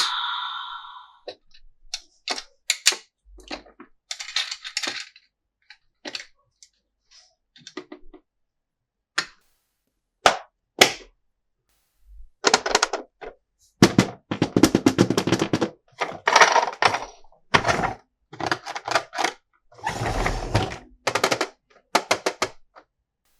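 Hard plastic toy pieces being handled, clicked and rattled together: scattered short clicks at first, then denser bursts of clatter through the second half.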